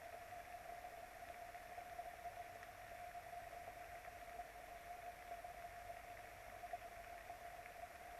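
Faint, steady hiss of rain picked up by an outdoor nest camera's microphone, with a constant electrical hum tone underneath.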